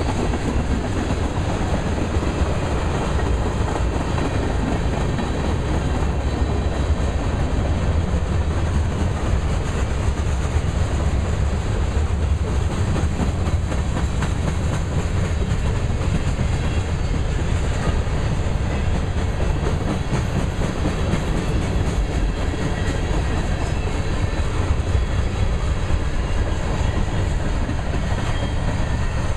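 Two freight trains passing at once: the cars of a manifest freight train (tank cars, covered hoppers, boxcars) rolling by close at hand with a steady heavy rumble and wheel clickety-clack over the rail joints, and a loaded coal train crossing the steel girder overpass above. The sound stays even throughout, with no horn.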